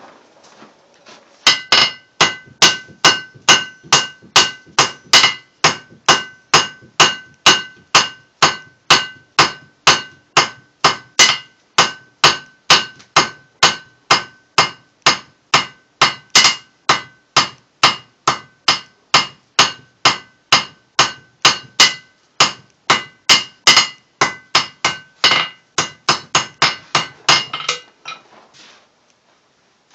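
Blacksmith's hand hammer striking hot steel on an anvil: a steady run of blows about two a second, each with a bright ring. The blows begin a second or two in, pause briefly once, and stop a couple of seconds before the end.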